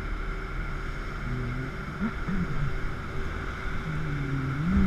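Jet boat engines running under a steady rushing hiss, their pitch rising and falling a few times and climbing near the end.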